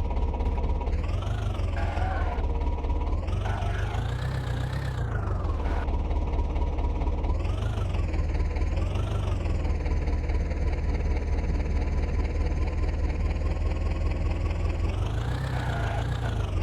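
Swaraj tractor's diesel engine running under a heavy low rumble, revved up and let back down several times, holding steady for a few seconds before revving again near the end.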